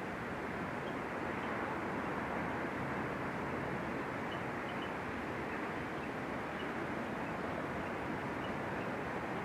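Steady outdoor background noise, an even rushing hiss like distant traffic or wind, with faint, brief high chirps now and then.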